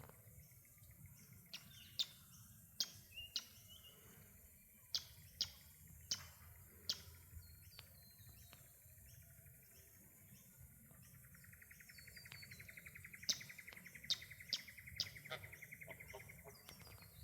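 Small birds calling outdoors: short, sharp chirps scattered throughout, with a rapid, even trill starting a little past the middle and running on near the end.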